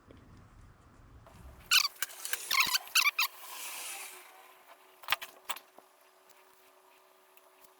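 Paint pen scratching marks onto the Kubota exhaust manifold in a quick flurry of short strokes, followed by a brief hiss and two sharp clicks.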